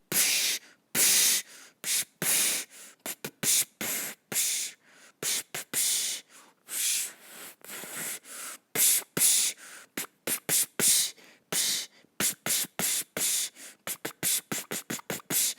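Short hissing and puffing mouth sounds in an uneven, beat-like run, like a person beatboxing.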